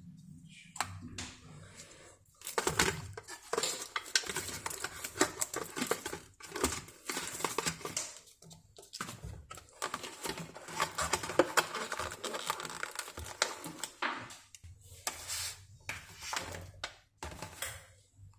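Kitchen clatter: dishes and utensils knocking and clinking at an irregular pace, with a few short pauses.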